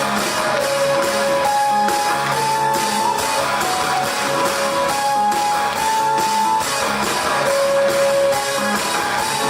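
Rock band playing an instrumental passage live: strummed guitar and a steady drum beat, with a melody of long held notes swapping back and forth between two pitches.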